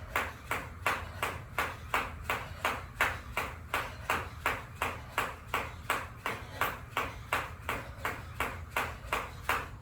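Jump rope slapping the floor on every turn, a steady beat of about two and a half hits a second, stopping right at the end as a set of 100 turns finishes.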